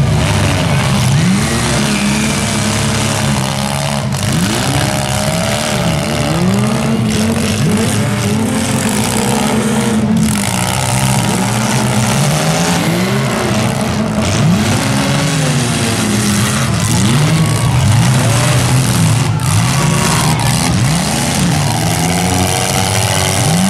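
Several demolition-derby compact cars' engines revving up and down over one another, each rise and fall of pitch lasting about a second or two, with a few sharp knocks.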